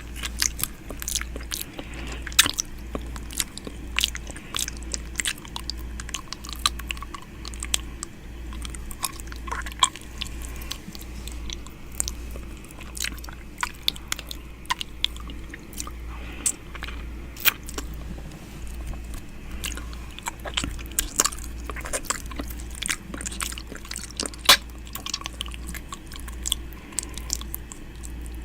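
ASMR 'ear eating' mouth sounds held right against the microphone: a steady run of wet, irregular clicks, smacks and snaps from lips and tongue, over a constant low hum.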